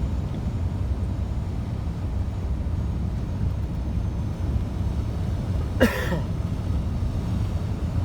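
Scania truck under way, its diesel engine and road noise making a steady low rumble. A little under six seconds in there is one brief sharp sound.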